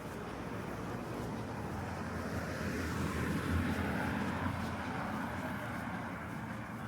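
A car driving past on the street: tyre and engine noise swelling to its loudest about halfway through, then fading away.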